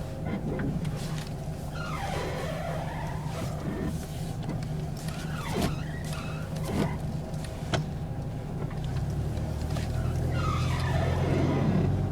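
A 1992 Honda Civic LX's four-cylinder engine idling while the steering is turned, with several squealing, gliding sounds that rise and fall and a few sharp clicks from the front end. The owner blames the noise on striking a curb hidden in a snowbank, and suspects the axles. The engine hum grows stronger about nine seconds in.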